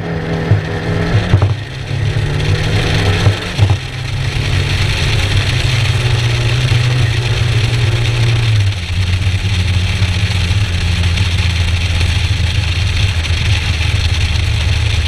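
Skoda Fabia RS rally car's tuned 1.9 TDI four-cylinder turbodiesel pulling hard at speed, with brief breaks for gear changes about one and a half and four seconds in and a drop in pitch at an upshift a little past halfway. A steady rush of wind and tyre noise runs under it.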